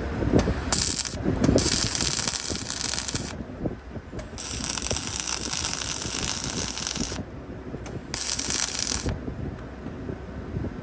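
Welding arc crackling in four separate bursts that start and stop abruptly, the longest about three seconds, over a steady low rumble.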